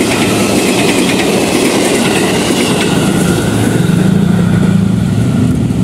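Commuter electric train passing at close range: a steady rumble of wheels on the rails with regular clacking over the rail joints. A steady low hum comes in about halfway through.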